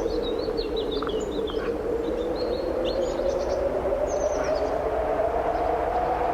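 Strong wind blowing steadily with a slow swell, under small songbirds chirping and twittering in short bursts, most busily in the first two seconds.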